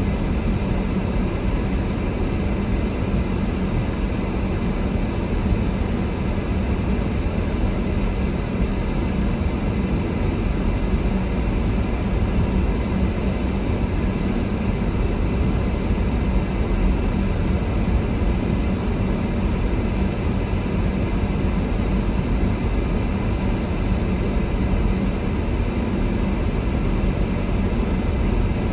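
Steady engine and road noise of a car being driven, heard from inside the cabin, with a constant low hum and no distinct events.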